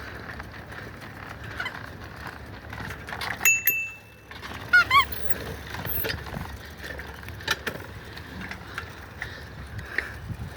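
Bicycles riding along, a steady rumble of tyres and wind with scattered clicks and rattles. A short high ring sounds about three and a half seconds in, and a quick series of squeaky chirps follows about a second later.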